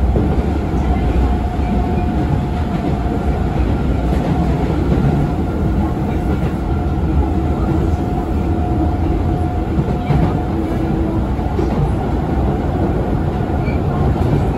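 Osaka Metro 21 series electric train with Hitachi IGBT VVVF drive running at speed, heard from inside the passenger car: a steady rumble of wheels on rail. Through the middle of it runs a faint steady tone from the drive.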